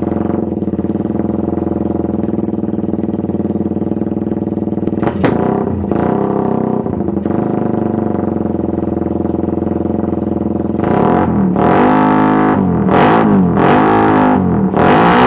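Suzuki Satria FU motorcycle's single-cylinder engine idling steadily through its exhaust, with one quick throttle blip about five seconds in. Near the end it is revved hard several times in quick succession, each rev rising and falling.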